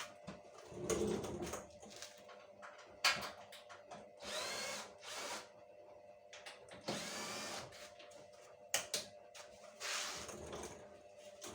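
A handheld power drill or driver running in several short bursts of about half a second to a second, one rising in pitch as it spins up, with clicks and knocks from handling in between.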